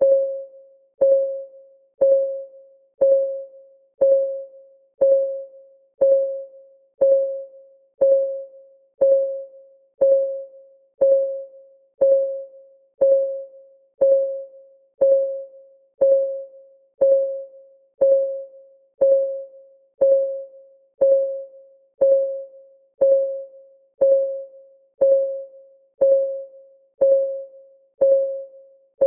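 Clock-ticking sound effect of a countdown timer: one short, pitched tick every second, each with a sharp start that dies away quickly, perfectly even.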